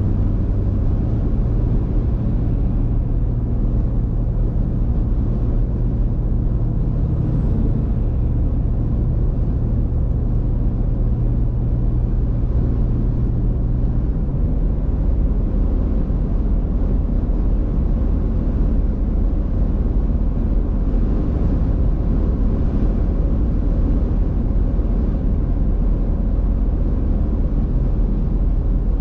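Car driving: a steady low rumble of engine and road noise, with a low hum that drops in pitch about halfway through.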